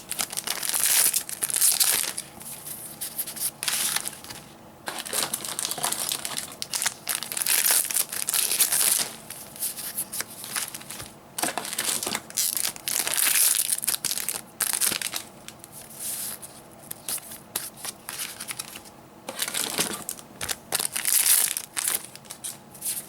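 Foil trading-card booster packs being torn open and crinkled in the hands, in irregular bursts of rustling that come every second or two.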